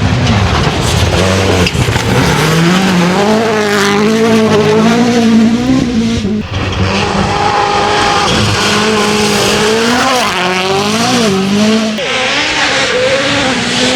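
Hyundai i20 N Rally1's turbocharged four-cylinder engine at full throttle on gravel, its note rising and falling repeatedly with the revs, with sharp breaks about six seconds in and again near the end as the driver lifts or shifts.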